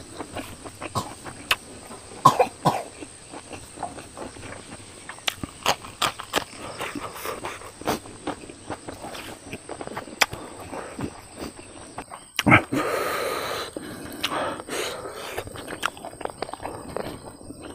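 Close-miked chewing and lip smacking of a man eating fried rice and meat by hand, many short wet clicks. About twelve and a half seconds in comes a sudden loud burst of breath with a rush of air after it.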